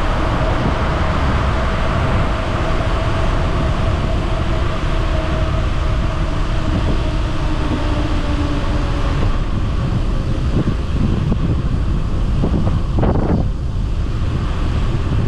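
Steady rush of wind on the microphone and road rumble from a bicycle coasting fast downhill, with a faint hum that slowly drops in pitch and fades during the first two thirds, and a short whoosh about thirteen seconds in.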